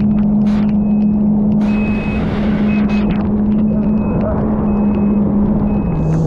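Jet ski engine running steadily at speed over a rush of water and wind, with a brief hiss of spray about two seconds in; near the end the engine note drops a step lower.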